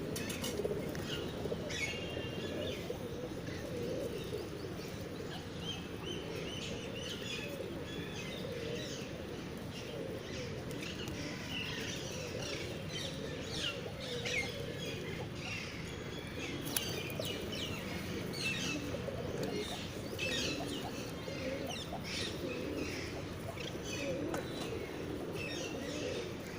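A flock of pigeons cooing in a continuous low murmur, with many short, high bird chirps scattered throughout.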